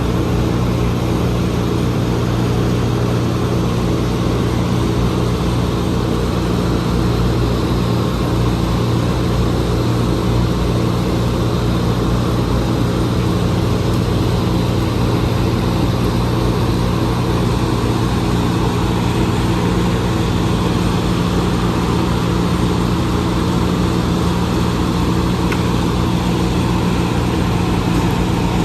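A heavy engine running steadily at a constant speed: an even, unchanging low drone.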